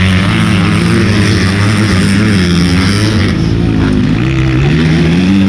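Motocross bike engines running and revving, their pitch repeatedly rising and falling.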